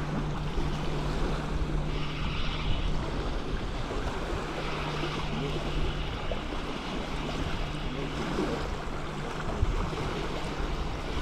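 Gusty squall wind buffeting the microphone with a steady low rumble, over water lapping at the bank. A faint steady low hum runs underneath.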